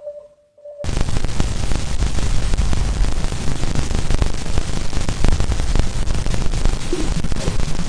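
A steady pure tone cuts off abruptly about a second in. It gives way to loud, dense crackling static with a deep rumble beneath it: audio made from space observation data.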